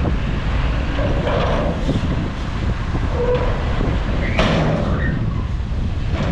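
Bulldozer engine running under load with a steady low rumble, overlaid by a few short metallic squeals, the loudest about four and a half seconds in.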